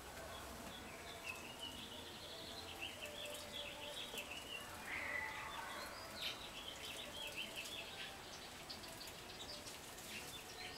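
A small songbird singing a long, rapid, jumbled warbling song, followed by scattered short chirps near the end.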